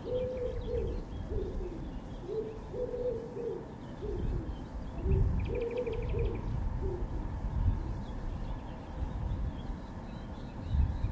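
A nature-sounds recording played back from a Unitra Uwertura M1417S reel-to-reel tape recorder: low, repeated cooing bird calls, with a quick high trill of a smaller bird about five and a half seconds in, over a low rumble.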